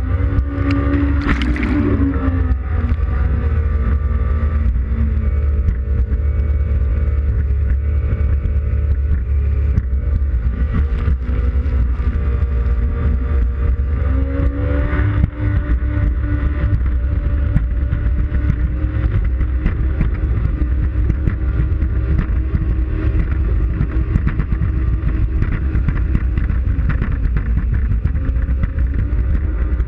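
Yamaha WaveRunner FX Cruiser High Output jet ski engine running hard. Its pitch falls shortly after the start and rises again about halfway through, over a heavy low rumble.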